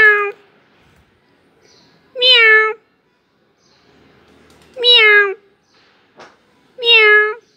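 A domestic cat meowing repeatedly: four meows about two seconds apart, each about half a second long and dipping slightly in pitch at the end. There is a short click between the last two meows.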